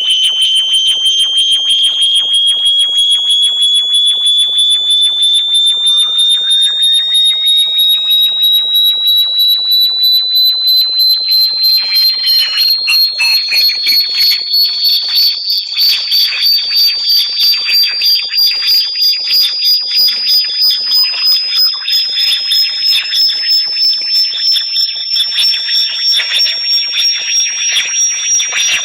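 Synthesized high-pitched electronic tone sold as a bat repellent sound, climbing slowly and steadily in pitch, with a fast, even pulsing flutter and fainter tones sweeping up and down around it.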